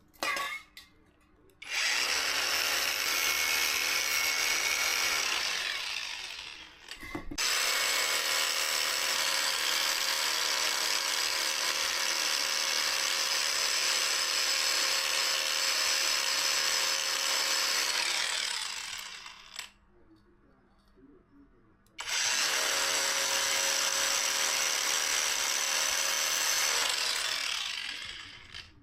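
An electric power tool running in three long stretches with short pauses between, a steady high whine over a rough hiss, each run winding down at its end.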